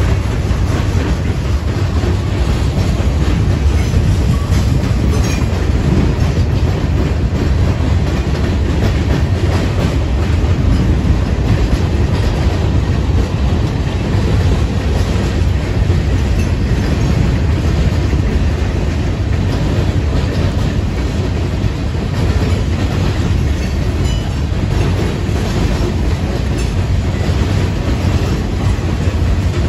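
Freight train's boxcars rolling past close by: a steady, heavy rumble of steel wheels on the rails that keeps on without a break.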